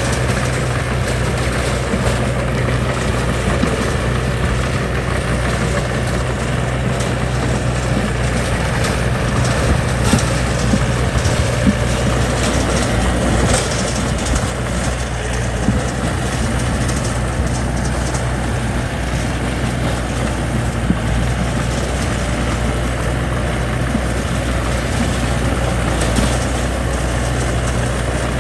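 Heavy earthmoving machine's diesel engine running steadily, with a few short knocks near the middle.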